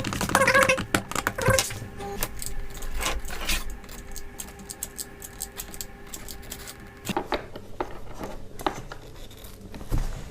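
Light, irregular clicks and taps of small plastic parts and tiny screws being handled, over a faint steady tone.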